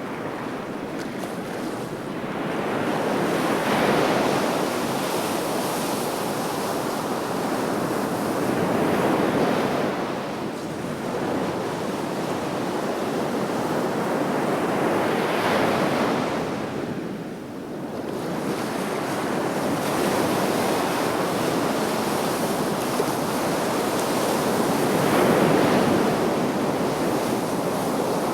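Sea waves breaking and washing on the shore in a continuous surf, swelling and easing as each wave comes in, with four or five waves peaking over the stretch, and wind on the microphone.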